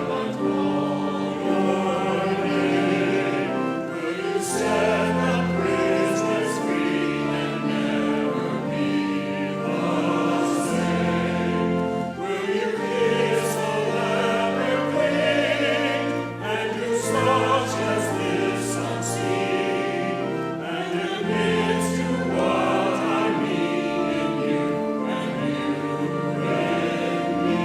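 Church choir singing in parts over steady held chords, with the words' consonants audible.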